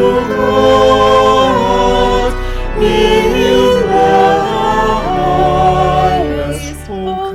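Slow sacred choral music: held chords moving step by step, with singing voices.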